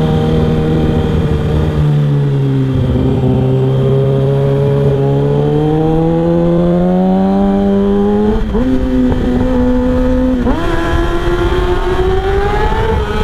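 Kawasaki ZX-6R 636's inline-four engine running under way. The revs fall about two seconds in, climb slowly, then change sharply twice, about eight and a half and ten and a half seconds in, as the gears change.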